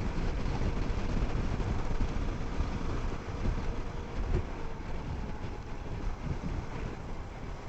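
Motorcycle running at cruising speed in fourth gear, with the rush of wind buffeting the microphone over a steady low engine rumble.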